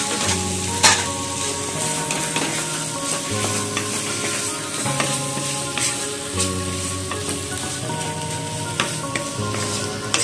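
Sliced onions and tomatoes sizzling in oil in a pan, stirred with a wooden spatula that clicks and scrapes against the pan now and then. A soft background tune plays underneath.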